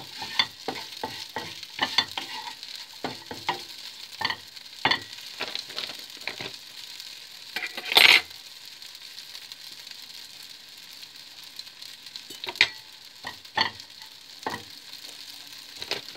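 Cubed crumpets frying in hot oil in a frying pan, with a steady sizzle, while a wooden spoon stirs them and knocks against the pan many times in the first half. The loudest knock comes about eight seconds in, and a few more follow later on.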